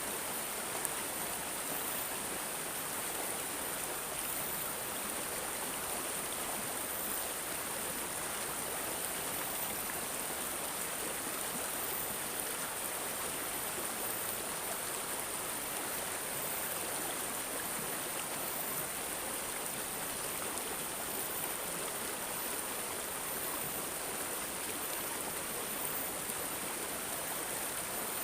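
Flowing water gurgling and babbling steadily, with no pauses or changes.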